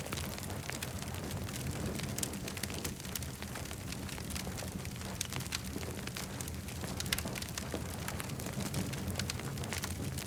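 Campfire crackling: frequent sharp pops and snaps over a steady low rumble of burning wood.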